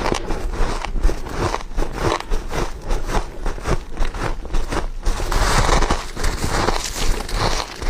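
Close-miked biting and chewing of frozen ice frost: dense, irregular crunching and crackling as the frost is bitten through and chewed.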